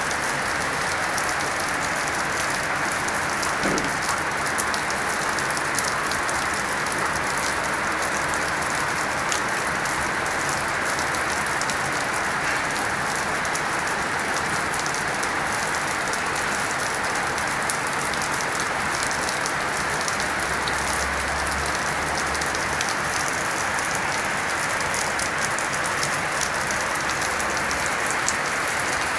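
Storm rain falling steadily, a dense, even patter of drops hitting surfaces.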